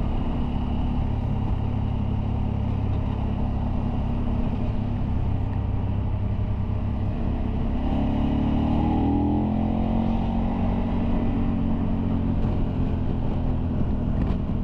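Motorcycle engine running under way with low wind rumble. About eight seconds in, the engine pitch rises as it accelerates, then drops back at a gear change.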